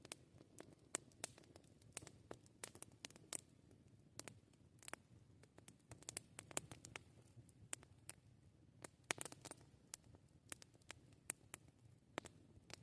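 Wood campfire crackling: irregular sharp snaps and pops, several a second, some louder than others, over a faint low murmur of the burning.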